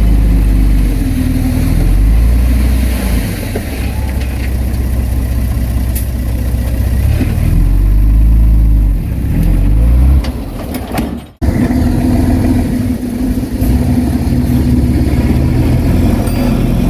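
Diesel engine of heavy earthmoving machinery running and working under changing load, its pitch rising and falling. The sound cuts out for a moment about eleven seconds in, then the engine carries on.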